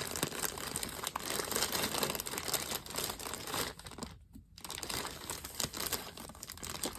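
Plastic packaging crinkling and rustling as items are pulled out of it, with a short pause about four seconds in.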